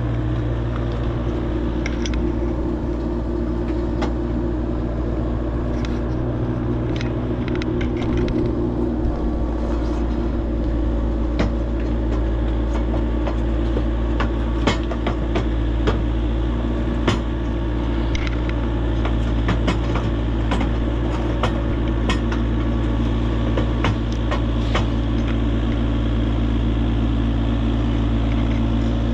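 A vehicle engine running steadily at an even speed, with scattered metal clanks and knocks through the middle.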